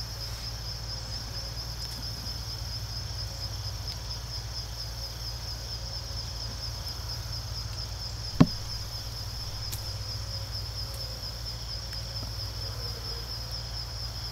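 Insects, crickets or similar, trilling steadily in a fast pulsing chorus, with a single sharp click a little past halfway.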